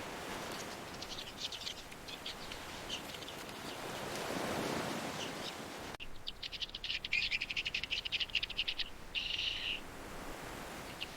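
Bird chirping over a soft background hiss: faint scattered chirps at first, then a rapid, evenly repeated trill of high chirps for about three seconds from six seconds in, ending in a short burst.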